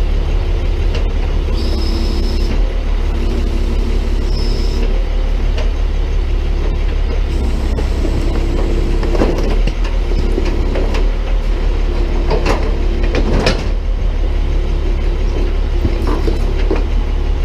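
Tow truck engine running steadily while its hydraulic boom works, with a higher hum that comes and goes in stretches as the controls are worked. Several cracks and crunches near the middle, as the can-crusher attachment presses trash down into a trash can.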